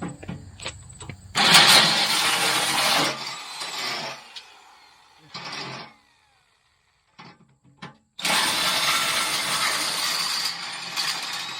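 Electric drill running under load, drilling out a bolt hole so the tooth-bar bolt will fit: a long run about a second and a half in, a short burst, a brief gap, then another long run from about eight seconds in.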